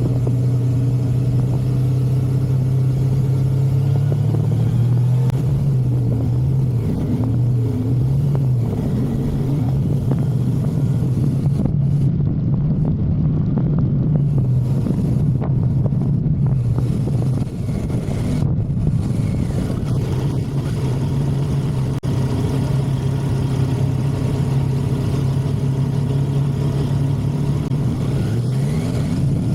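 Motorcycle engine running at steady cruising speed, with wind rushing over the microphone. The engine note wavers a few seconds in and climbs near the end as the throttle opens.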